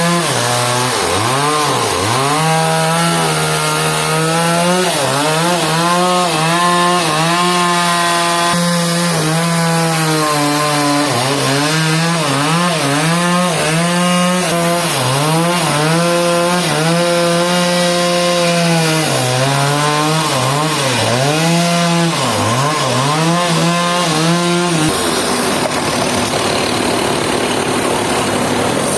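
Two-stroke chainsaw cutting through a large log at full throttle, its engine note dipping over and over as the chain bogs under load, then recovering. About 25 seconds in the engine note drops out for a few seconds, leaving a rushing noise, and returns near the end.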